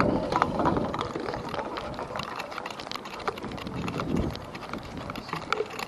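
Riding noise from a bicycle: wind buffeting the microphone with scattered clicks and rattles, the rumble easing off over the first couple of seconds.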